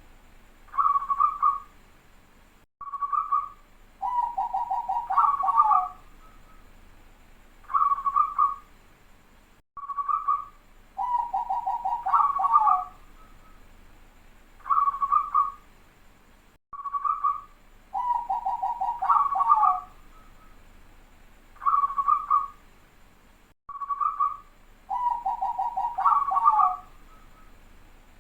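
Zebra dove (perkutut) singing its cooing song, a tight close-set 'suara rapat' song. A few short coos run into a rapid rolling trill that ends on a longer note, and the phrase repeats about every seven seconds, four times over.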